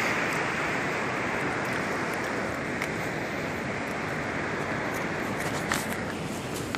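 Steady rushing noise of ocean surf, with a few faint clicks near the end.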